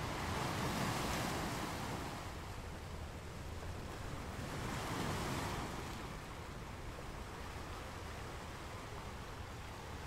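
Ocean surf breaking on a beach: a steady wash of waves that swells up about a second in and again about five seconds in, then settles into a softer, even rush.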